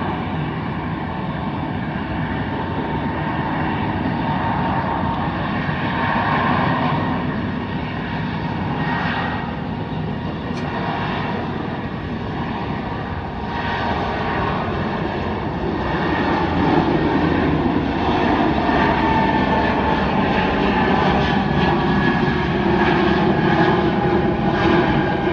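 Jet airliner engines running: a steady noise with faint whining tones that drift slightly in pitch, growing louder about two-thirds of the way through.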